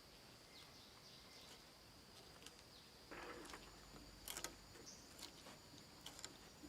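Faint forest ambience: an insect's steady high-pitched trill, with a few brief chirps over it. A little past the middle comes a short rustle and a couple of sharp clicks.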